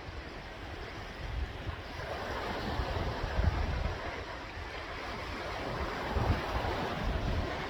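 Sea waves washing in, a steady rush that swells louder about three seconds in and again near six seconds. Wind buffets the microphone with low rumbles.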